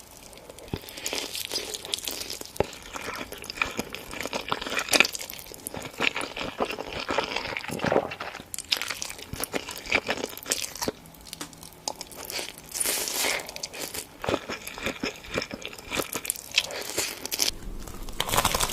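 Close-miked ASMR eating: crunchy food being bitten and chewed, a dense run of irregular sharp crunches and crackles.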